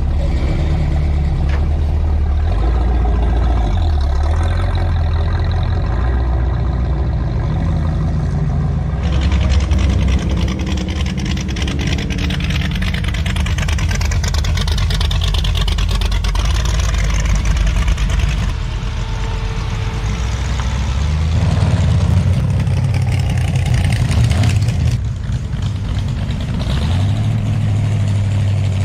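Engines of hot rods and street rods running as the cars roll past one after another, a low exhaust note that changes from car to car. A louder, noisier car passes about a third of the way in.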